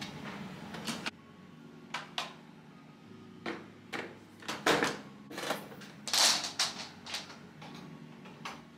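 A series of light knocks and clicks from household objects being handled, with a short hiss about six seconds in, over faint background music.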